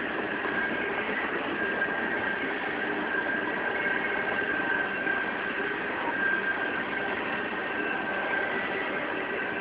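Coal hopper cars of a BNSF unit coal train rolling past on steel rails, a steady rumble of wheels with a faint, steady high whine running through it.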